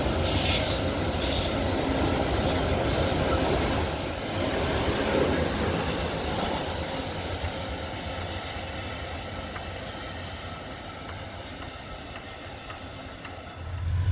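Loaded iron-ore wagons rolling past on curved track, the wheel-on-rail noise fading as the train's tail draws away. Just before the end, a louder low rumble from an approaching diesel locomotive cuts in suddenly.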